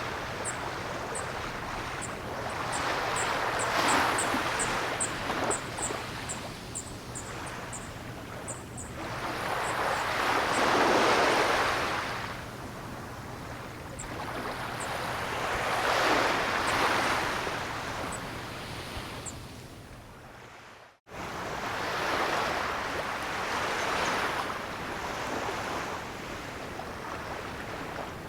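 Ocean waves breaking and washing on the shore, a steady hiss that swells with each wave about every six seconds. Faint high ticks come through over the first several seconds. About 21 seconds in the sound sinks and cuts out for an instant before the surf resumes.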